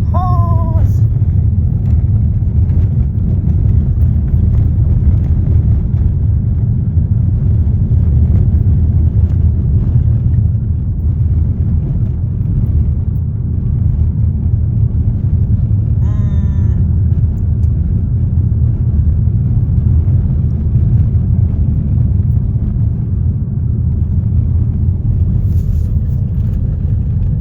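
A car driving, with a loud, steady low rumble of road and engine noise. Two brief pitched sounds rise and fall over it, once right at the start and once about sixteen seconds in.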